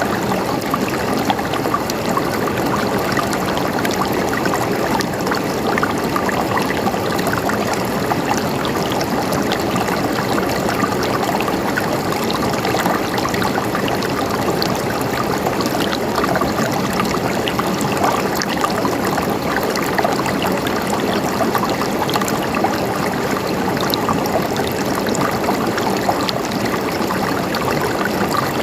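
River water flowing and splashing over rocks, a steady babbling rush with many small splashes and trickles.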